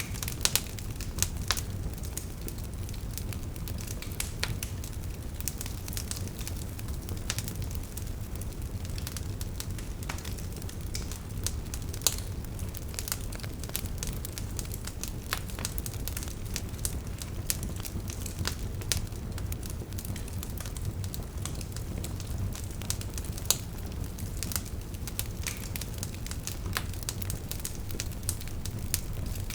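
Wood fire burning: a steady low rumble of flames with irregular crackles and a few louder pops from the logs.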